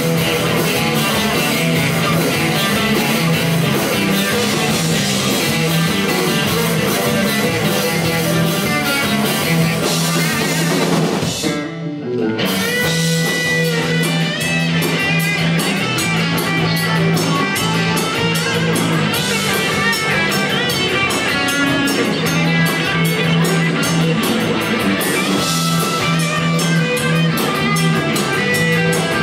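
Live rock band playing an instrumental passage with guitar and drum kit over a steady bass line, breaking off for a moment about twelve seconds in before kicking back in.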